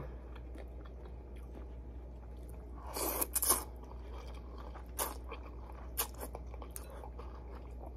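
A person chewing and biting a mouthful of ramen noodles, with a burst of crisp crunching about three seconds in and single mouth clicks near five and six seconds. A faint steady low hum sits underneath.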